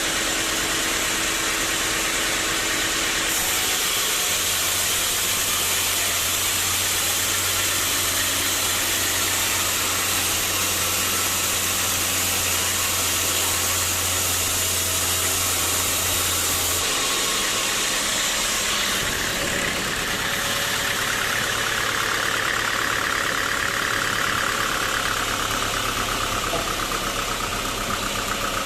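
Sawmill saw machinery running steadily: a loud, even mechanical noise with a low hum that stops about 17 seconds in, after which the sound shifts.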